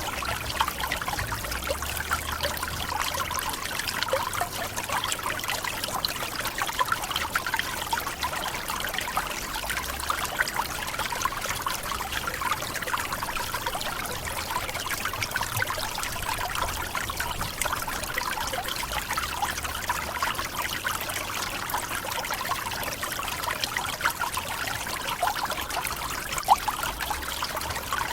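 Tropical forest waterfall: water falling and splashing in a steady, unbroken rush, with a low rumble underneath that swells and fades.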